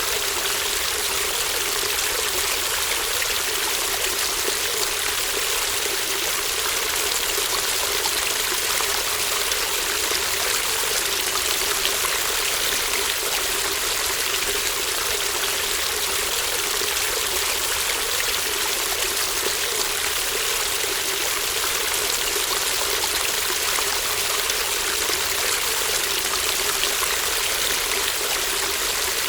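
Shallow stream babbling, the water trickling and running steadily without a break.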